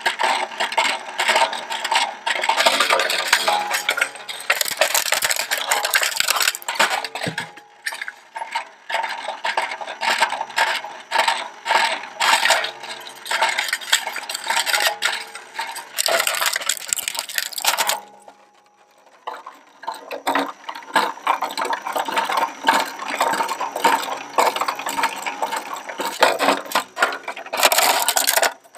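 Shredder crunching up a large plastic toy truck: a dense, loud run of cracking, snapping and clattering plastic, which drops away for a moment about two-thirds of the way through before starting again.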